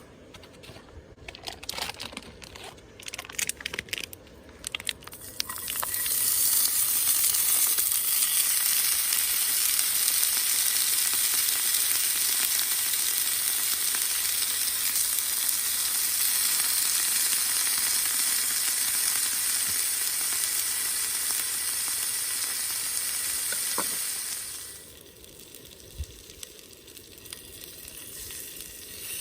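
Food frying in a hot pan: a few light clicks and knocks of utensils, then a loud, steady sizzle that starts about six seconds in and dies away quickly about five seconds before the end.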